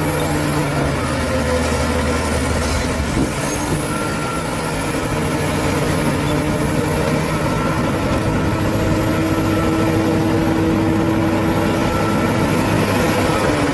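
Bulldozer's diesel engine running steadily and loudly, its note changing about three seconds in.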